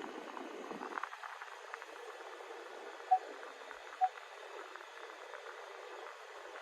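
Steady hiss inside a pickup cabin, with two short single beeps about a second apart, near the middle: parking-sensor beeps while the truck backs itself into a spot under park assist.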